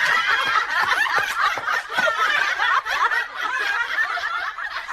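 A group of people laughing together, many overlapping laughs at once, fading out near the end.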